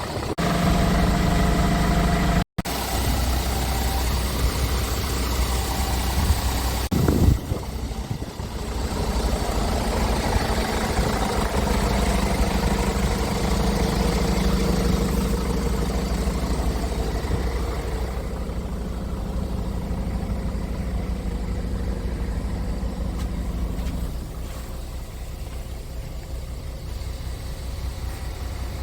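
Scania R500 truck's diesel engine running steadily at idle, with a brief knock about seven seconds in and the engine sound dropping in level near the end.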